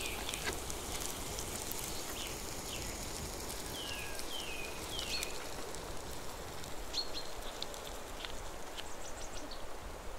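Woodland ambience: a bird sings short runs of quick falling chirps, a few times over, against a steady rustling hiss of leaves.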